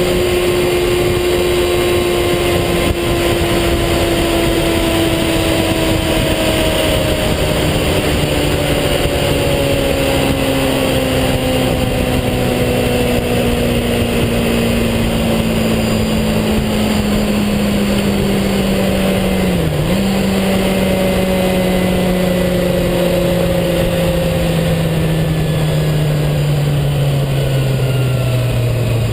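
A vehicle engine whose pitch falls slowly and steadily as it runs down, with a brief dip about two-thirds of the way through. Over it is a loud, steady rush of wind noise.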